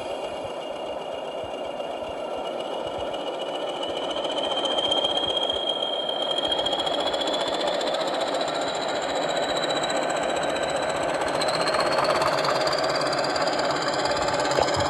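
Recorded diesel locomotive engine sound played by a model train's DCC sound decoder through its small loudspeaker, running with a high whine that rises steadily in pitch and gets louder about four seconds in.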